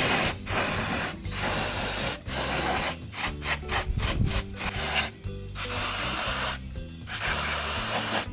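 Repeated rough scraping strokes, a dozen or so with short gaps between them, over background music.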